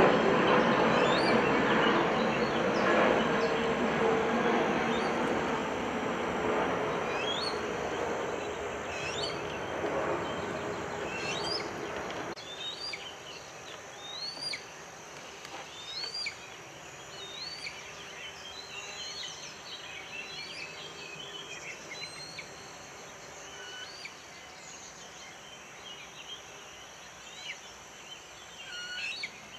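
A loud steady noise that fades over the first dozen seconds and then cuts off. Short, rising bird chirps repeat about once a second throughout, standing out once the noise is gone.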